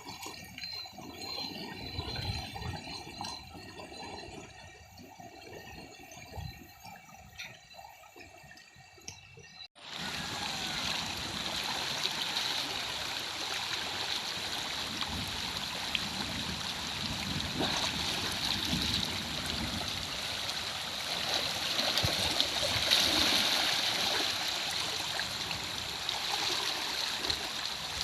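River water: soft sloshing and splashing at first, then, after a sudden cut about ten seconds in, a steady loud rush of flowing current.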